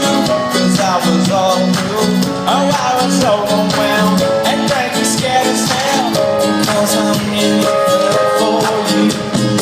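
A live rock band playing a pop-rock song: a sung lead vocal over guitars and a steady drum beat.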